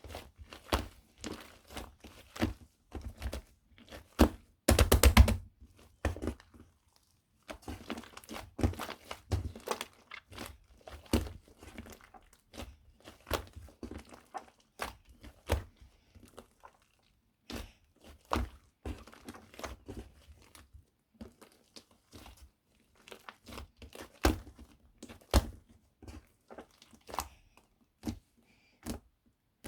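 Shaving foam being mixed, giving irregular squishing clicks and pops with short pauses between them, and a quick, loud run of crackling clicks about five seconds in.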